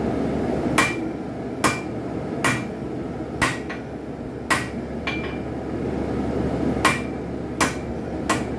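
Hand hammer striking a hot railroad spike on an anvil, drawing it out and straightening it into a knife blade. The strikes come about one every 0.8 seconds, each with a brief metallic ring, with a pause of about two seconds midway. A steady rushing noise runs underneath.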